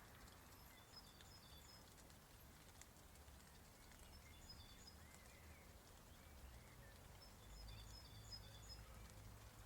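Faint birdsong: a small bird repeats a short, high, twittering phrase three times, a few seconds apart, with a few softer gliding calls in between, over a steady low rumble that swells slightly near the end.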